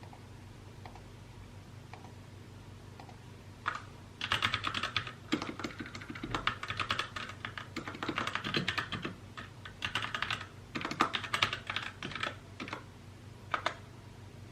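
Typing on a mechanical keyboard, in quick runs of keystrokes that start about four seconds in, with short pauses between the runs and a last few keys near the end.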